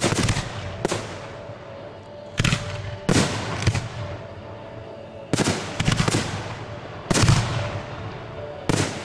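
Aerial firework shells bursting: about nine sharp booms at irregular intervals, a few in quick succession around the middle, each trailing off in a rolling echo.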